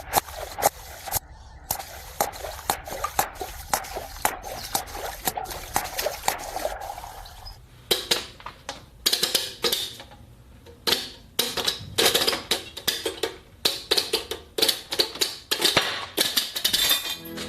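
Rapid, irregular clicking and clattering of hard objects, with a change in the pattern about eight seconds in.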